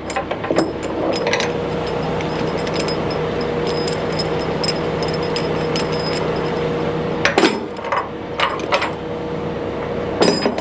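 Engine running steadily under sharp metal clanks and knocks, with a cluster of clanks about seven to nine seconds in.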